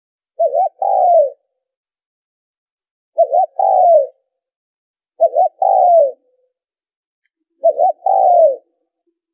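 Spotted dove cooing: four calls, one every two to three seconds, each two quick short coos followed by a longer coo that falls in pitch.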